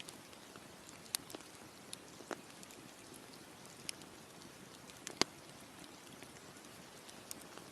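Campfire crackling: irregular sharp pops and snaps of burning wood, the loudest about five seconds in, over a steady soft hiss.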